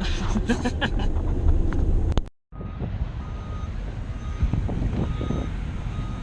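Low vehicle rumble with wind on the microphone, broken by a sudden cut about two seconds in. After the cut a vehicle's reversing alarm beeps repeatedly in the background over the rumble.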